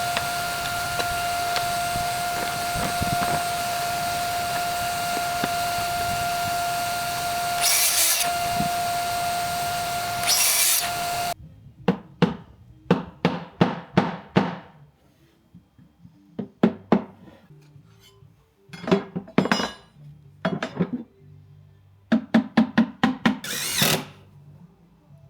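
HiKOKI 36V cordless track saw running under load with a steady high motor whine, most likely while cutting through board, with two brief louder surges near the end of the cut. It stops abruptly, followed by a run of short, sharp power-tool bursts in quick groups.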